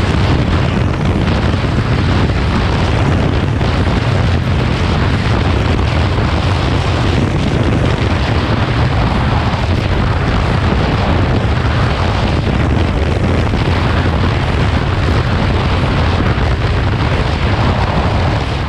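Motorcycle riding at speed, heard through its rider's camera: a steady, loud rush of wind buffeting the microphone over the bike's running.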